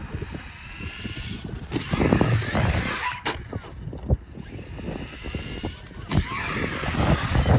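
Electric RC cars running hard: a high motor whine rising and falling as they accelerate and slow, with rough tyre-on-dirt noise and several sharp knocks of landings or impacts, the loudest about three and four seconds in and again around six seconds.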